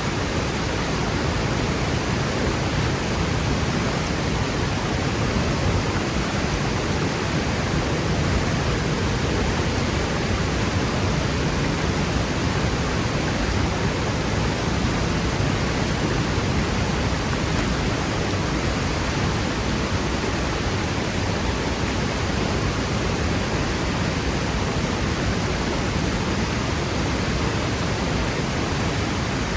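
Waterfall pouring steadily: a dense, unbroken rush of falling water with strong low rumble and no other events.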